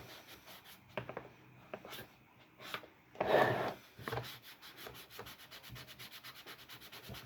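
Wiping and scrubbing the textured plastic housing of a Honeywell desk fan to get ingrained dirt off: scattered scuffs and a louder rub about three seconds in, then rapid, even back-and-forth strokes over the same spot.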